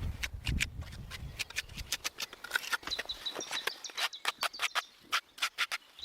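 A run of irregular sharp clicks and taps, with a bird chirping in short repeated high notes from about halfway through.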